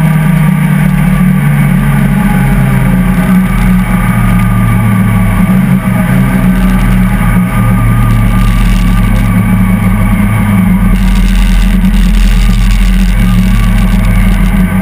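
Peugeot 205 competition car's four-cylinder engine under hard acceleration, heard from inside the cabin. The engine note is very loud and shifts in pitch several times as the car changes gear.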